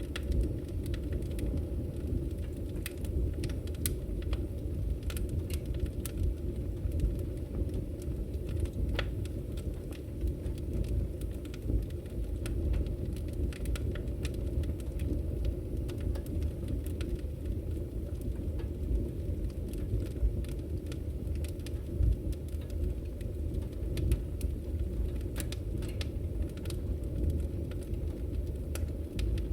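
Wood fire burning in a fireplace: a steady low rumble of flames with irregular sharp crackles and pops of the burning wood.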